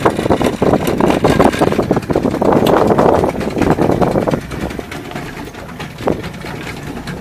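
Glass-bottom boat's motor running with water splashing and crackling. It is loud for about four seconds, then drops to a quieter steady rumble.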